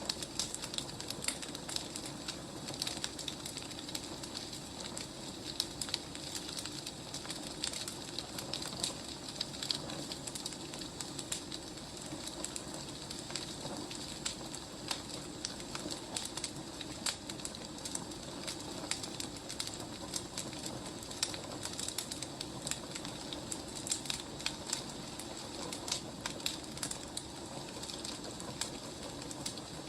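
Wood fire burning, crackling with frequent small irregular pops and snaps over a steady low rush of flame.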